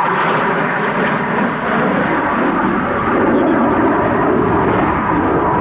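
RAF Eurofighter Typhoon jet, its twin EJ200 turbofan engines making a loud, steady rushing noise that swells a little past the middle as the aircraft flies its display.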